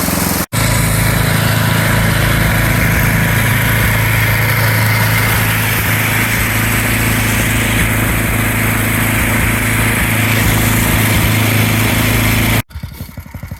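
Gas snowblower engine running steadily under load while it cuts through deep, drifted snow. It drops out briefly about half a second in. Near the end it gives way to a quieter, pulsing run.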